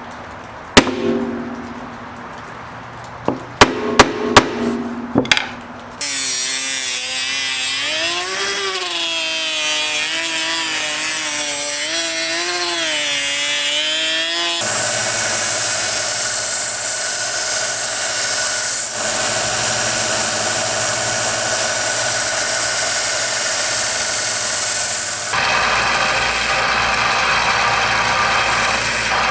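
Several sharp knocks in the first six seconds, then a power tool running continuously on the axe's wooden handle and wedges. Its pitch wavers up and down under load at first, then it runs more steadily.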